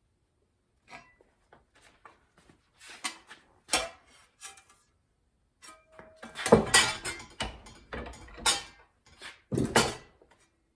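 Sheet steel and hand tools being handled on a workbench: scattered metallic clinks and clatters, busier from about six seconds in, with a brief metallic ring.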